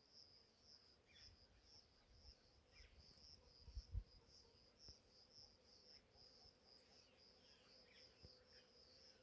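Faint insect chirping, most likely a cricket, pulsing steadily about twice a second. A low thump comes about four seconds in.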